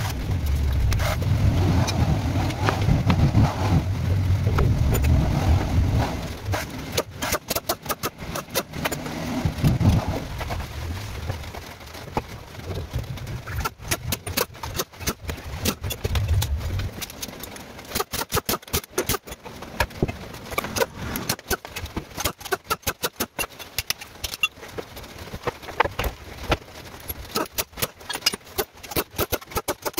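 A car engine running with a low rumble, stopping abruptly about seventeen seconds in; a string of sharp clicks and knocks runs through the second half.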